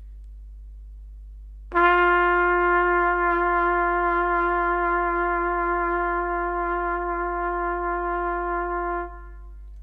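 A brass instrument holds one long sustained note with hand vibrato, the pitch wavering gently as the player rocks the instrument back and forth with the hand. The note starts about two seconds in and fades out about a second before the end.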